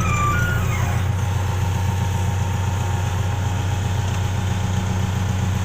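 Tracked excavator's diesel engine running steadily. There is a brief high-pitched whine in the first half second that falls away by about a second in.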